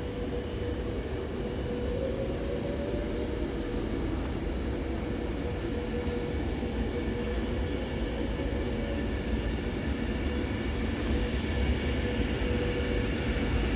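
Electric multiple-unit train running at the platform, its traction equipment giving a steady whine over a low rumble that grows slowly louder.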